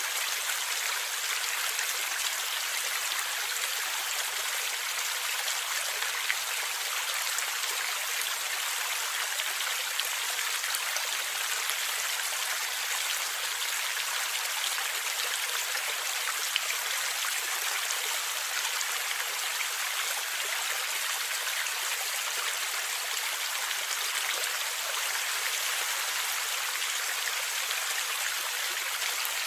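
Stream water flowing and gurgling over rocks: a steady, even rush with no low rumble.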